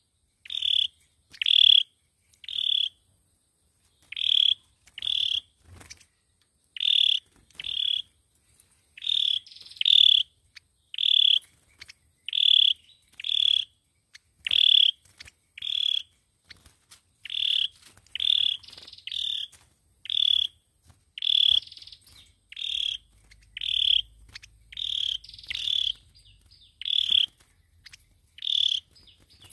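Sâu dừa bird calling: a long series of short, sharp notes repeated about every second, often in quick pairs.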